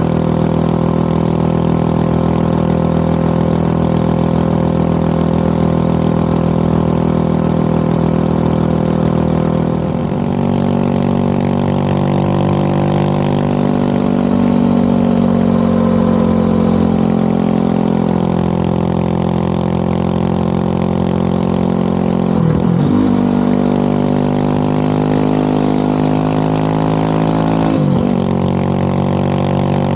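Motorcycle engine running steadily under way, its pitch easing down and back up about ten seconds in, with quick dips and recoveries about two-thirds of the way through and again near the end, typical of gear shifts.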